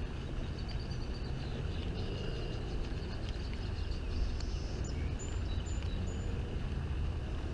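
Outdoor pond-side ambience: a steady low rumble of wind on the microphone, with faint bird chirps about halfway through.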